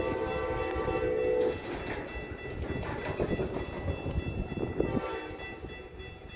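Train horn sounding a chord that cuts off about a second and a half in, followed by the rumble and clatter of a train on the rails.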